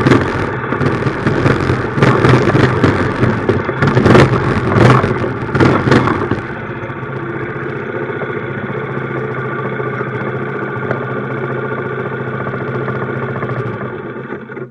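Minibike engine running, loud and uneven with bursts of noise for about the first six seconds, then settling to a steady, quieter idle; the sound cuts off suddenly at the end.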